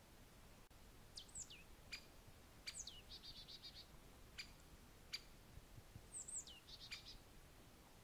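Wild birds calling faintly. Several high whistled notes slide steeply downward, two of them running into a quick trill, and about five short, sharp single call notes fall between them.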